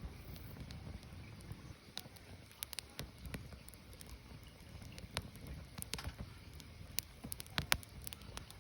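Burning firewood crackling, with irregular sharp pops and snaps over a low, steady rumble of the flames.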